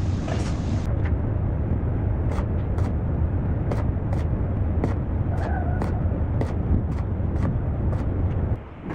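Tractor's diesel engine running with a steady low rumble and a regular ticking, cutting off suddenly near the end.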